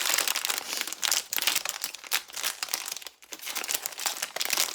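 Plastic wrapping around a blind-box figure crinkling and rustling as it is handled and unwrapped, in a dense stream of quick crackles with a short pause about three seconds in.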